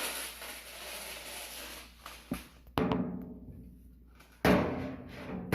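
Scraping noise, then a few heavy hollow thumps on the dryer's sheet-metal body, each ringing out and dying away, as parts are handled during the repair.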